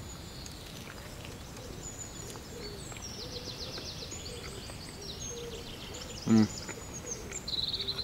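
Small songbirds singing, a run of quick chirps and fast trills over a steady outdoor hiss. About six seconds in comes one short, loud voice-like sound.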